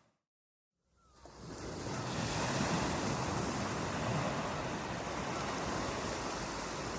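Rushing water, fading in from a moment of total silence about a second in, then holding steady.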